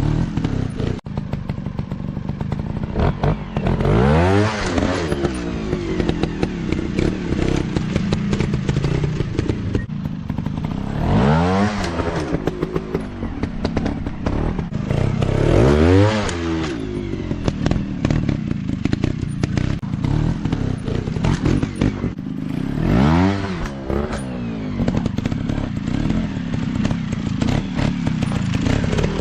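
Dirt bike engines running continuously, with the engine pitch rising sharply and falling back again four times as a bike is revved hard or rides past, between steadier lower running.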